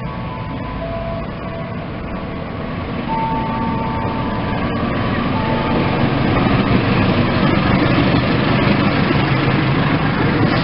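Locomotive-hauled express train approaching and running through a station without stopping, its rumble growing louder over the first six seconds and then holding steady. Short steady tones come and go over the first few seconds.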